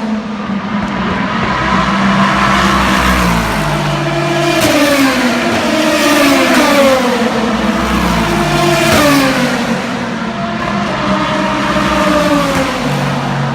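Several endurance race cars (Le Mans prototypes and GT cars) passing one after another under power. Their engine notes overlap, each falling in pitch as the car goes by.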